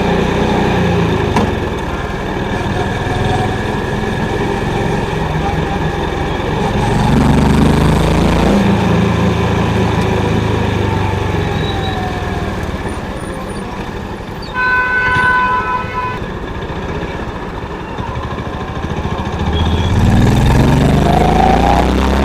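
Honda CB350's single-cylinder engine running while riding, its pitch rising twice as it accelerates: about seven seconds in and again near the end. A vehicle horn sounds for about a second and a half, roughly two-thirds of the way through.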